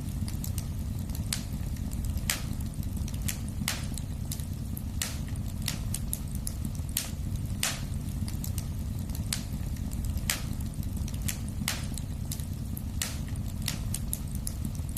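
Wood fire burning in a fireplace: a steady low rumble of flame with sharp crackles and pops from the burning wood, about one a second at irregular spacing.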